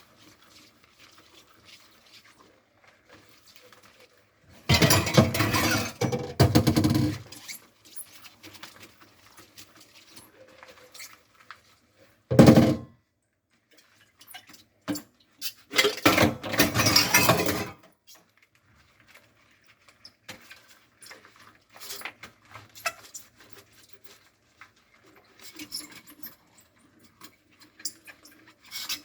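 Dishes being washed by hand at a kitchen sink: faint clinks of dishes and cutlery and the rub of a loofah scrubber, with the tap running in two spells of about two seconds each and one short loud splash or clatter between them.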